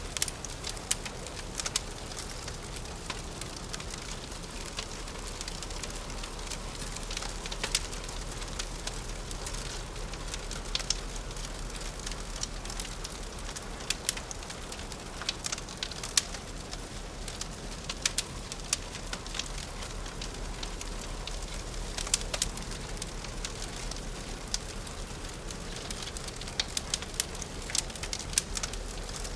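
Crackling fireplace: a steady hiss of burning wood with frequent irregular sharp pops and snaps.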